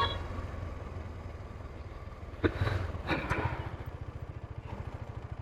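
Motorcycle engine idling with a steady, rapid low pulse, with a couple of short sharp sounds about halfway through.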